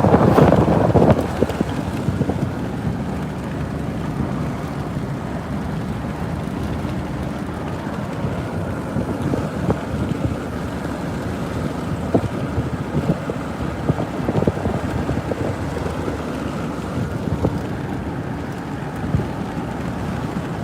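Steady wind and road noise of a car driving through strong storm winds, with a louder rush of wind over the first second or so.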